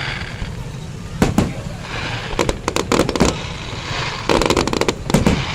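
Fireworks going off, with a couple of sharp single bangs about a second in, then two runs of rapid crackling pops, one around two to three seconds in and another about four to five seconds in.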